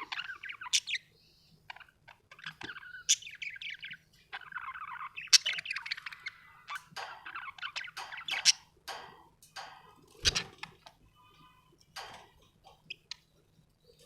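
Budgerigar chirping and warbling: a busy run of short, quick chirps and chatter, with a brief low thump about ten seconds in.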